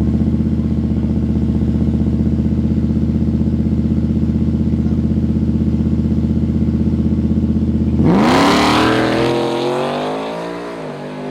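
A car engine runs steadily with a pulsing beat while staged. About eight seconds in it is floored for a hard launch: the sound jumps louder and the pitch climbs, then dips and climbs again.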